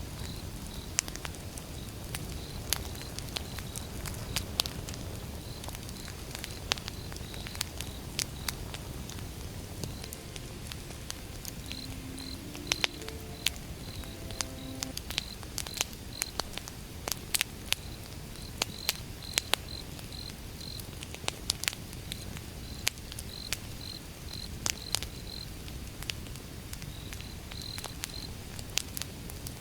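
Wood fire crackling, with sharp irregular pops over a steady low rumble of burning logs, and crickets chirping in short pulses throughout.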